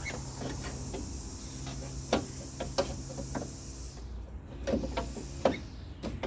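1996 Honda Civic power window motor running steadily as it drives the rear door glass down on the newly fitted regulator, stopping about four seconds in. Several sharp clicks and knocks follow near the end.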